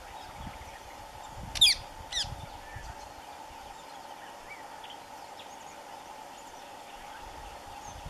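Two loud, sharp bird calls about half a second apart, each a quick series of falling notes, with faint chirps of other birds and a steady drone behind them.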